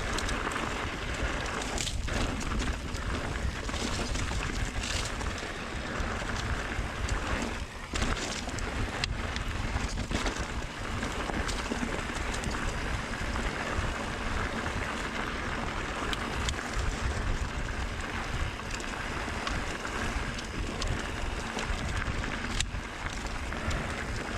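Wind buffeting a camera microphone and tyres rolling over a dirt trail during a mountain bike descent, a steady rushing noise with scattered short clicks and knocks from the bike rattling over the ground.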